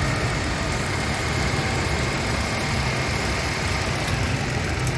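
2016 Mitsubishi Mirage's three-cylinder engine idling steadily, with a faint steady high whine over it.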